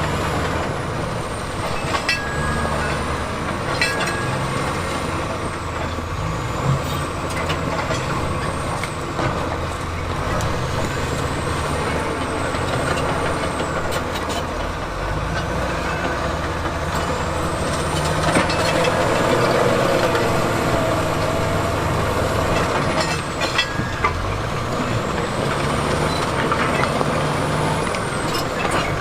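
Diesel engine of heavy earthmoving machinery working under load, its pitch rising and falling as the revs change, with scattered sharp metallic clanks.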